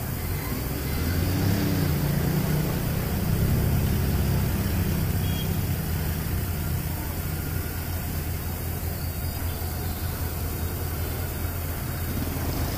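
Honda CB400 Super Four's inline four-cylinder engine running at low revs as the bike pulls up and stops, then idling steadily.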